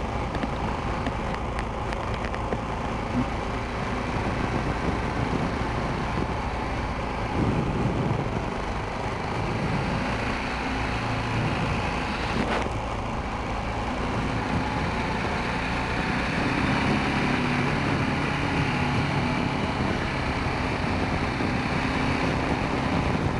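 Honda Rincon 650 ATV's single-cylinder four-stroke engine running while riding, its note shifting up and down with the throttle over a steady rumble of travel noise.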